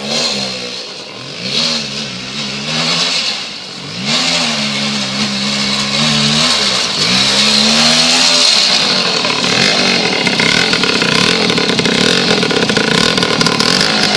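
Voskhod motorcycle's single-cylinder two-stroke engine revved in four short rising-and-falling blips, then held at high revs, running steadily and louder from about eight seconds in.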